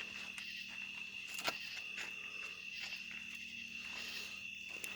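A steady, high chorus of night insects, crickets or katydids, with faint scattered ticks and one sharp click about a second and a half in.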